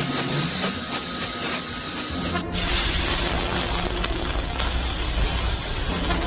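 Steady hissing rush of blown air that grows louder about two and a half seconds in, with a low rumble under it.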